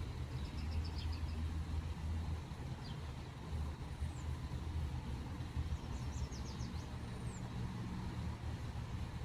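Small birds chirping: two quick runs of high notes, about a second in and again past the middle, and a couple of thin high whistles sliding downward, over a steady low rumble.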